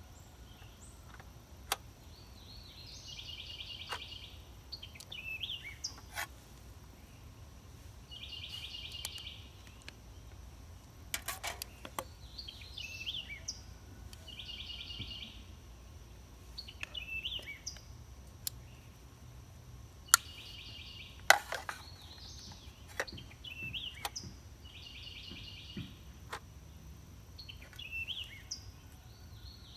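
A songbird repeats the same phrase every few seconds: a fast buzzy trill followed by a few short falling notes. Sharp metal clicks and taps come from the steel sinker mold and pliers being handled, the two loudest about two-thirds of the way through.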